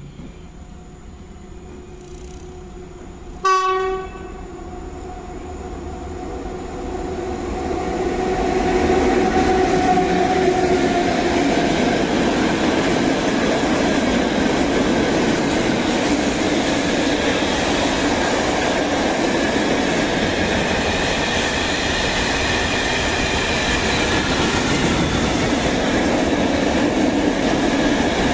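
ET22 electric freight locomotive sounding one short horn blast about three and a half seconds in. Its train of open coal wagons then rolls past, the noise of wheels on rail building over several seconds to a steady loud rumble.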